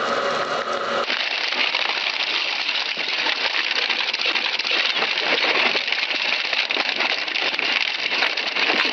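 An industrial shredder or crusher breaking up material, a dense crackle of many small snaps and clatters. For about the first second, before that starts, a machine runs with a steady hum.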